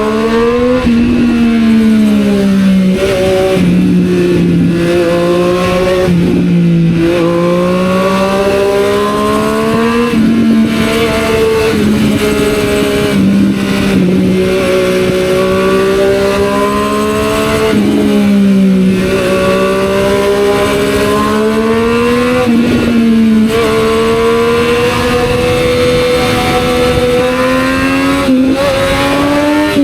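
Motorcycle with a Yoshimura aftermarket exhaust, likely a Triumph Street Triple 765 R's three-cylinder engine, riding and pulling through the gears. The engine note climbs steadily, then drops sharply at each gear change, about six times, with a steady rush of wind and road noise underneath.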